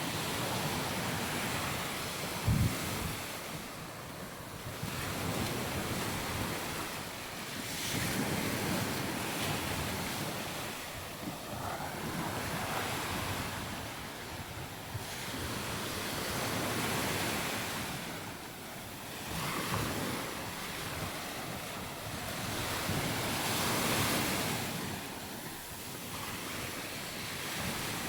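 Sea waves breaking on the shore, the wash swelling and falling away every few seconds, with wind on the microphone. There is a brief low thump about two and a half seconds in.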